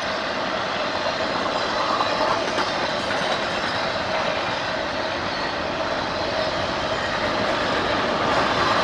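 A train rolling through a grade crossing: steady noise of wheels on the rails, growing a little louder near the end.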